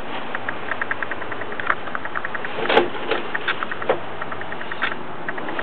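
Motorhome engine idling, with a fast, even light ticking over a steady running noise and a few louder clicks in the middle.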